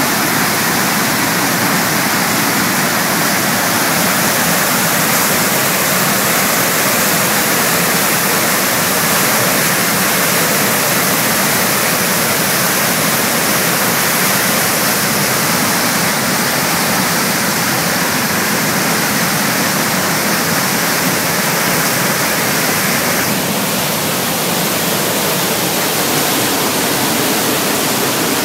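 Big Falls of the Missisquoi River, a waterfall in full spring-thaw flood, pouring and churning in a steady, loud rush of water. The sound eases slightly near the end.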